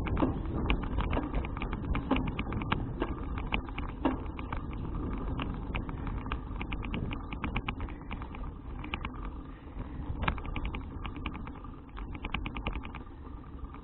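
Wind rumbling on an action camera's microphone during a bicycle ride, with rapid irregular clicking and rattling from the moving bike. The clicking thins out for a couple of seconds past the middle, then picks up again.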